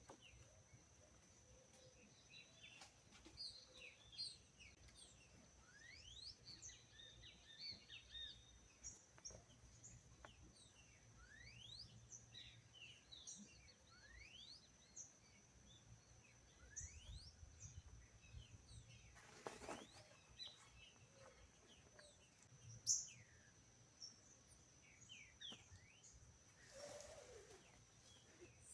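Faint woodland ambience: several wild birds chirping and calling with many short, quick sweeping notes over a steady thin high-pitched tone. Two brief rushing sounds come about two-thirds of the way in and near the end.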